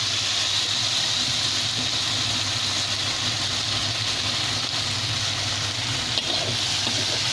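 Long beans sizzling steadily in a hot wok with a little added water, stirred now and then with a metal spatula, over a steady low hum. A small sharp tick sounds about six seconds in.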